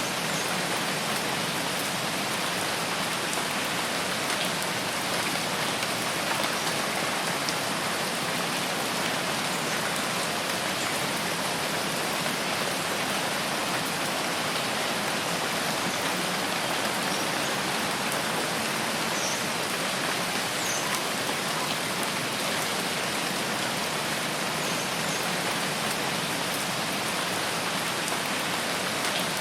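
Steady rain falling in a forest: an even, unbroken hiss of drops with no thunder.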